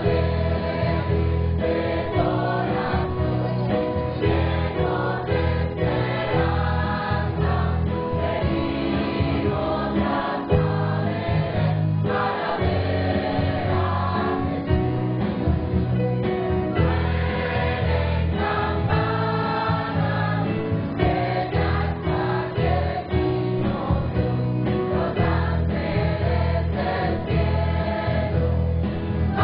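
Choir singing a Christmas song, with a deep steady accompaniment underneath.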